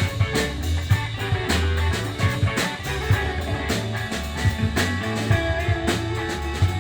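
Live southern-rock band playing: electric guitar over bass and a drum kit keeping a steady beat, with no singing.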